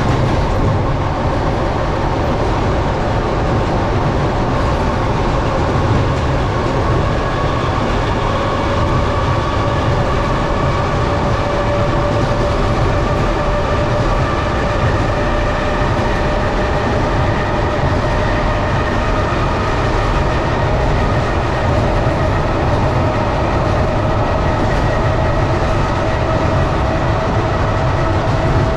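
Train running along the track, heard from inside the carriage: a steady rumble with wheel and rail noise. From about eight seconds in, a whine slowly rises in pitch.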